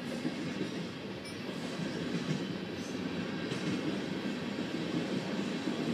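Freight train cars rolling past on the rails, a steady noise of wheels on track.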